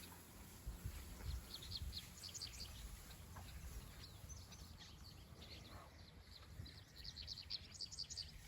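Swallows twittering as they fly, short high chirps coming in two bursts, one early and one toward the end, over a low rumble.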